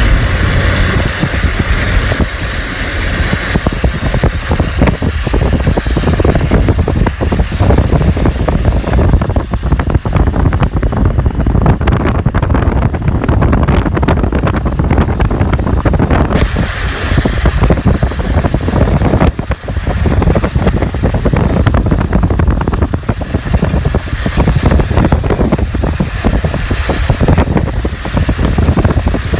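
Loud wind buffeting the microphone in uneven gusts over the steady rush of the rain-swollen Takahashi River.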